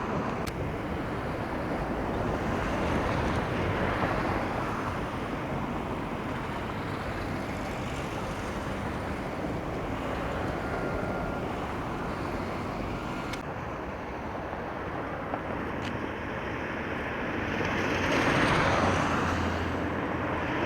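Steady outdoor traffic noise from road vehicles, swelling as a vehicle passes near the end.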